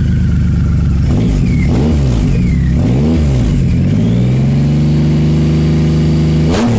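Triumph Rocket 3's three-cylinder engine, breathing through polished stainless Predator headers into a single 24-inch SuperTrapp, idling and then blipped three times. It is then revved and held up for a couple of seconds before dropping back near the end.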